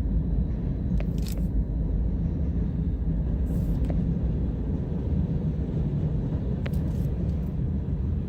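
Freight train of hopper cars rolling past close by: a steady low rumble of wheels on rail, with a few brief sharp high sounds about a second, three and a half and seven seconds in.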